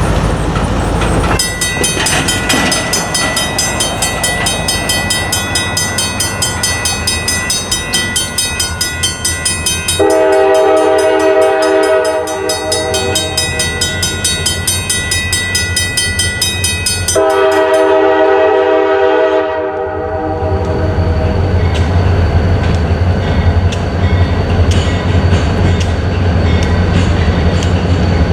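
Railroad crossing signal bells start ringing a second or so in, a rapid steady clang, as the crossing activates. A train horn then sounds two long blasts, and the train's engine rumbles through the crossing with its wheels clicking over the rails near the end.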